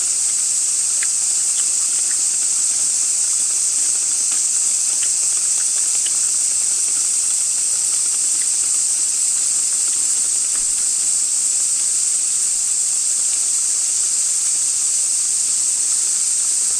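A chorus of cicadas droning steadily at a high pitch, with a few faint ticks over it.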